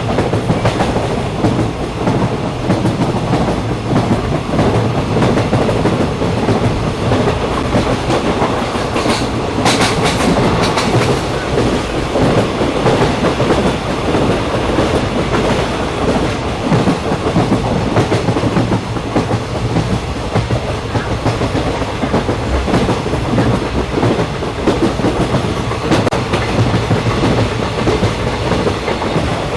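Passenger train running along the rails, heard from inside the carriage: a steady rumble of wheels and running gear, with a few sharp clicks about nine to ten seconds in.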